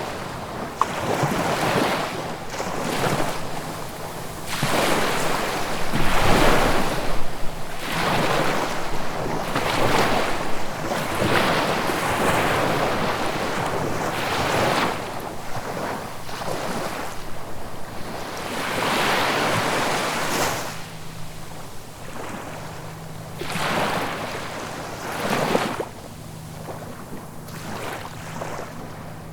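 Ocean waves breaking and washing ashore, swelling and falling away in surges every few seconds.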